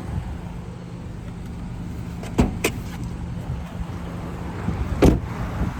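Steady low hum of a car's engine idling, with a few sharp clicks and knocks as the hood release is pulled and the hood latch pops open.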